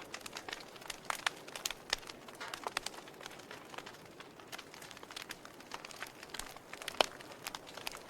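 Wood fire burning in a fireplace: a soft steady hiss with irregular sharp crackles and pops, one louder pop about seven seconds in.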